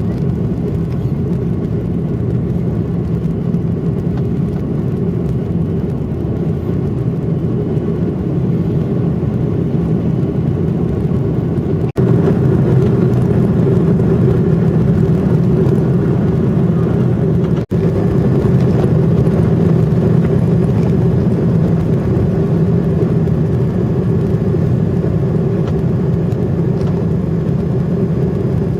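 Airliner jet engines running steadily, heard from inside the passenger cabin as a loud, even drone. The sound drops out for an instant twice, about twelve and eighteen seconds in, and is a little louder after the first break.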